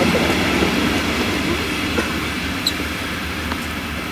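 Double-deck S-Bahn passenger train rolling away along the track, its wheel-on-rail rumble fading steadily, with two faint sharp clicks about two seconds in.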